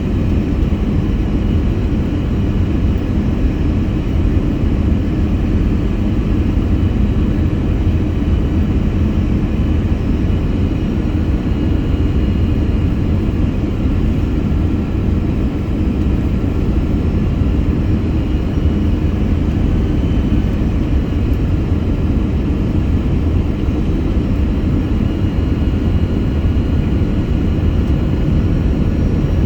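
Steady cabin noise inside an Airbus A321 airliner in flight: a constant low rush of airflow and engine rumble, with a faint steady whine above it.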